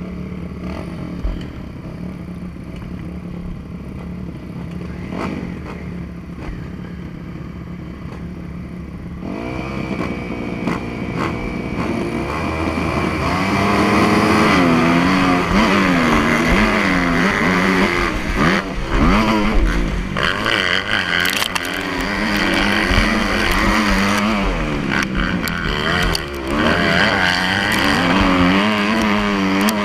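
Motocross bike engine running at a steady low speed, then, about a third of the way in, revving up and down over and over and getting louder.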